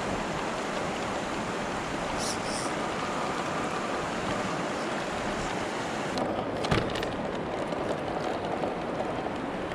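Steady rushing noise of a GMADE GS02F RC crawler driving off-road, its brushless motor and drivetrain running. A cluster of sharp knocks and clicks comes about six to seven seconds in.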